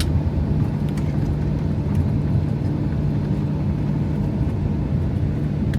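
Steady drone of a jet airliner heard inside the cabin while it taxis before takeoff, with a constant low hum.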